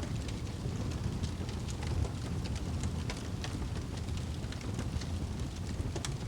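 Fireplace fire burning with a steady low rumble and frequent irregular sharp crackles and pops.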